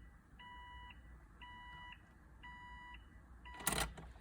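Car's electronic warning chime beeping evenly, about once a second, each beep about half a second long, with the ignition switched on.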